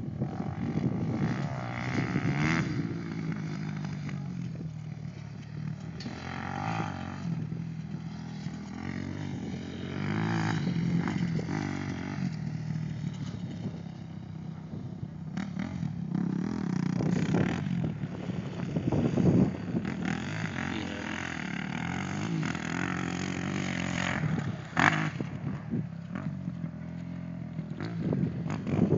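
Motocross dirt bike engines revving up and down, their pitch rising and falling over and over, louder at times as they come close.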